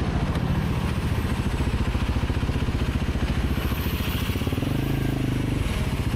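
Motorcycle engine running steadily, its firing pulses making a rapid, even beat.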